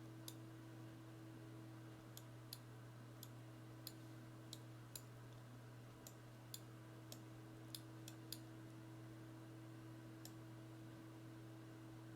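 Faint, irregularly spaced clicks of a computer mouse, roughly one or two a second, over a steady low electrical hum.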